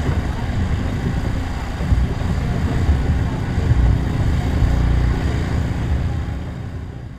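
A steady low rumble with no clear tones, like engine or boat noise, fading away over the last second or so.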